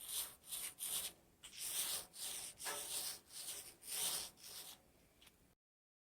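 Repeated rubbing strokes of chalkboard paint being applied by hand to the board of a metal sign, about two strokes a second. The strokes stop abruptly near the end.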